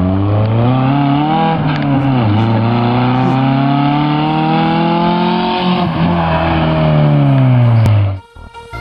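Eagle Talon TSi AWD's turbocharged four-cylinder engine accelerating hard as the car approaches. Its pitch climbs, falls back twice at gear changes, about two seconds in and again about six seconds in, and climbs again. It cuts off suddenly just after eight seconds as music starts.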